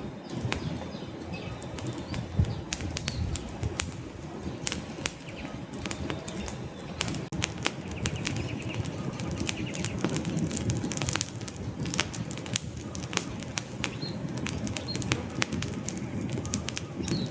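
Wood fire burning in a fireplace: a steady low rush and flutter of flames with frequent sharp crackles and pops from the logs.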